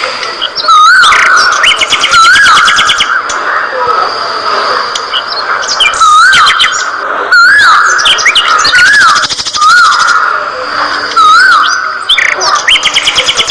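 A flock of budgerigars chirping and warbling, many loud, quick calls overlapping.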